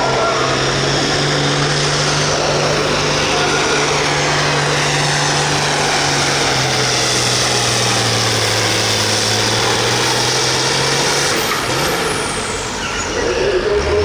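Turbocharged diesel pulling tractor running at full throttle under load, its steady engine note sagging slowly in pitch. About eleven seconds in the engine backs off and a high whistle falls away.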